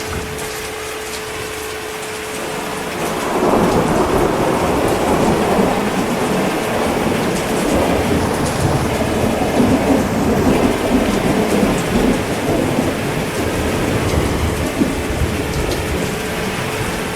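Heavy rain falling steadily, with a long rolling rumble of thunder that swells about three seconds in and slowly dies away near the end.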